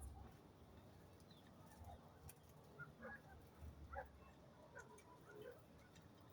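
Faint, scattered bird chirps, a few short calls over near silence.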